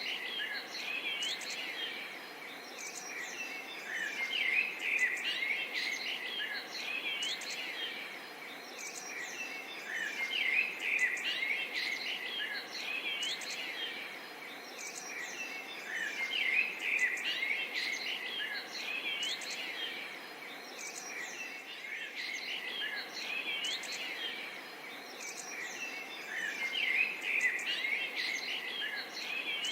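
Many birds chirping and twittering in overlapping flurries that swell and ebb every few seconds, over a steady background hum of insects.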